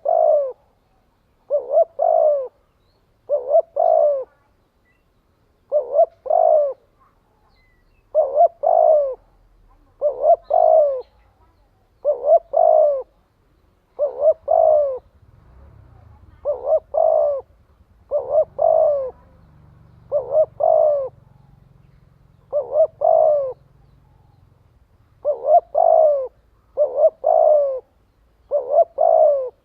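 Spotted dove cooing in quick, regular double notes, each note dropping in pitch at its end, about one pair every second and a half to two seconds. It is the rapid call of a male decoy dove, used to stir up and lure other doves.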